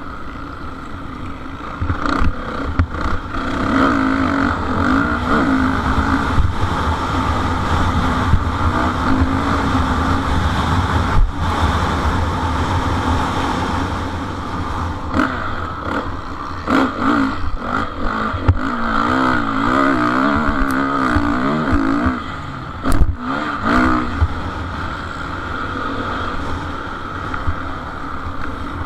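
Motocross motorcycle engines racing, revving up and down again and again as the bikes accelerate and shift, with a few sharp knocks.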